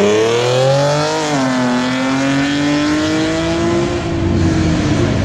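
Nissan 370Z's V6 revved hard through an aftermarket exhaust: the revs climb for about a second, drop back a little, then are held high and steady before easing slightly near the end.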